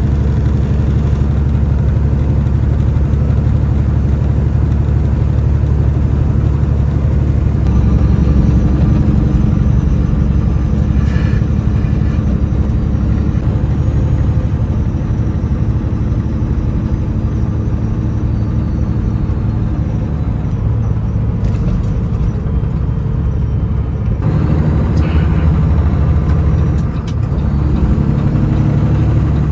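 Semi truck's diesel engine heard from inside the cab while driving: a loud, steady low drone that shifts a little in pitch now and then as the load or speed changes.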